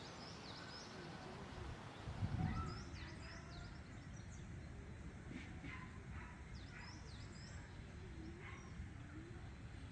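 Several birds chirping, with short high calls scattered throughout, over a low steady rumble that swells briefly about two seconds in.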